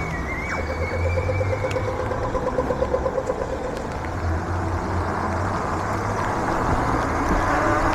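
Road and traffic noise heard from a moving e-bike: a steady rush with a low hum, and a warbling whine in the first few seconds.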